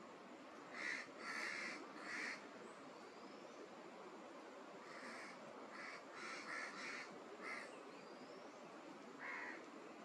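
Short, harsh bird calls, about nine in all, some single and some in quick runs, with two faint rising whistles from another bird.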